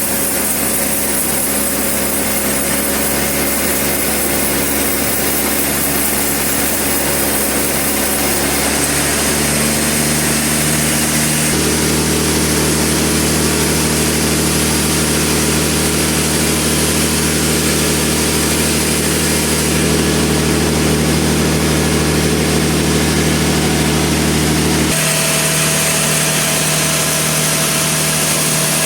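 Sawmill saw running on a log, a loud steady machine hum whose pitch shifts a few times, about a third of the way in and again near the end.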